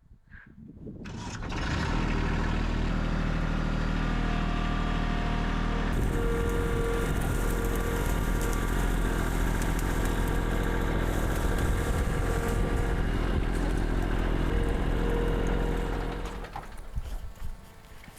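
Tractor engine starting up and running steadily. From about six seconds in it gets louder and more rattly, with a whine that comes and goes, and it fades out near the end.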